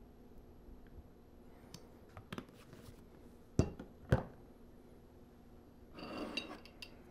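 Kitchenware being handled: a few light clicks, then two sharp knocks half a second apart, and a short scraping clatter with a faint ring near the end.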